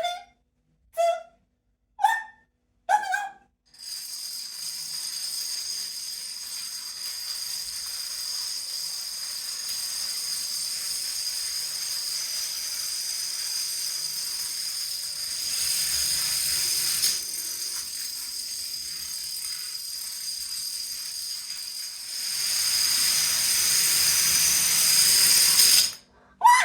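Four short beeps about a second apart, then a long run of plastic dominoes toppling in a continuous rattling clatter, with a thin steady high hiss over it. It grows louder twice, briefly near the middle and again for the last few seconds before stopping abruptly.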